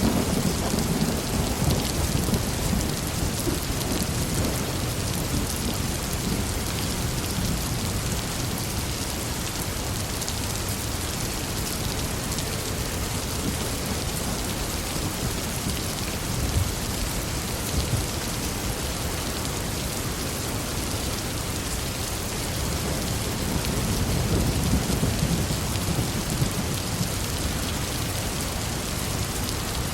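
Heavy rain falling steadily with a dense hiss, under rolling thunder. One low rumble dies away in the first few seconds, and another swells about three quarters of the way through.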